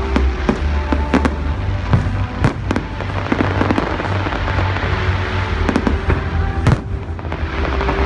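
New Year fireworks going off in an irregular string of sharp bangs, the loudest about two-thirds of the way in, over loud music with a heavy bass.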